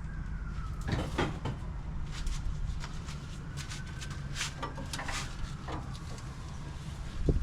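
Scattered clinks and knocks of tools on metal during strut work, over a steady low hum. A siren wails faintly behind them, its pitch rising and falling in slow arcs every few seconds.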